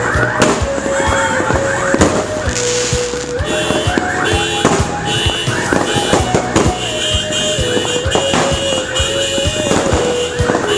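Fireworks going off in rapid succession, many sharp bangs and crackles close together, over music with a held melody line that steps up and down in pitch.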